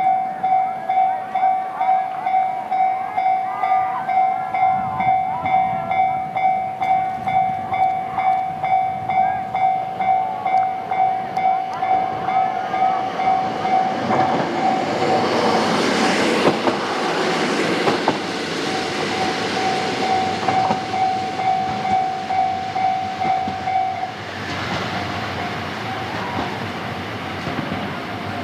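Level-crossing alarm bell ringing in a steady beat, a little under two strikes a second, while an MRT300 diesel railcar passes, its rumble and wheel noise swelling to a peak about halfway through. After the train has gone the bell rings on, fainter near the end.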